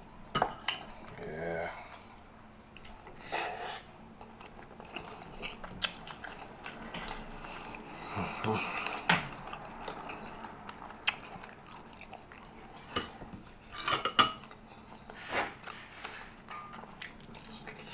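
Close-up eating sounds of a person chewing rotisserie chicken and spaghetti, irregular wet mouth noises and bites, with occasional short clicks of a fork against the dishes.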